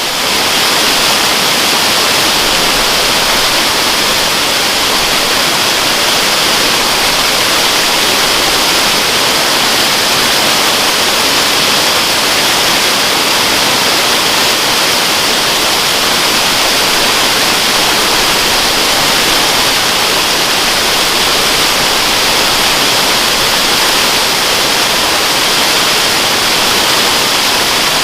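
Waterfall: a steady, unbroken rush of falling water, loud and hissy.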